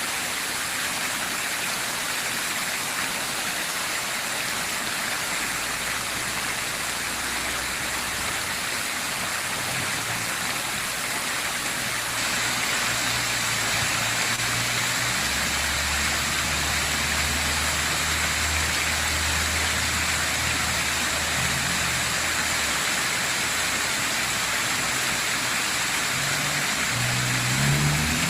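Fountain water splashing and falling steadily, a little louder about halfway through. A motor vehicle's low engine hum runs underneath through the middle stretch.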